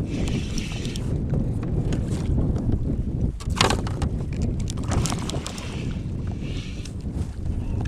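Wind buffeting the microphone on a kayak on open water, with a steady low rumble, patches of hiss and a few sharp knocks, the loudest about three and a half seconds in.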